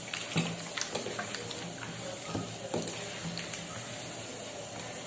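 Cooking sounds from a pot of mutton curry: a steady hiss with several sharp clicks and scrapes of a utensil against the pot, the loudest about half a second in.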